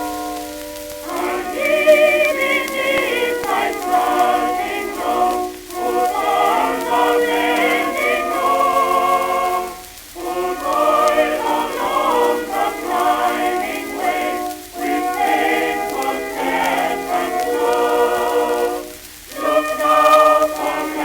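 Choir singing on an early 1900s phonograph record, with a thin, muffled sound that has almost no treble. The voices sing with vibrato in phrases of about four seconds, with short breaks between them.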